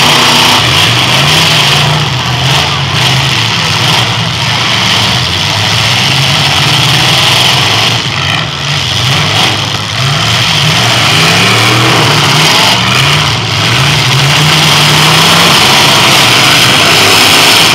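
Several demolition derby cars' engines revving hard and falling back over and over as the cars ram and push each other in a mud pit, loud throughout.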